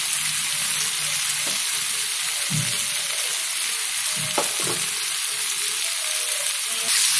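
Thick onion-tomato masala gravy sizzling steadily in a nonstick frying pan as fried green bell pepper and onion pieces are added and stirred in with a spatula. A few soft knocks come through about two and a half and four and a half seconds in.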